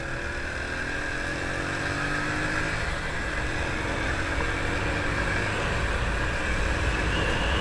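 Yamaha FZS motorcycle engine running steadily while riding, with wind rumbling over the action camera's microphone.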